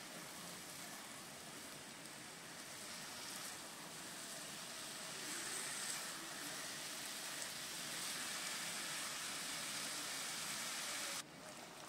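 Chicken pieces sizzling as they fry in a pan of onion and ginger-garlic paste, a steady frying hiss that cuts off abruptly near the end.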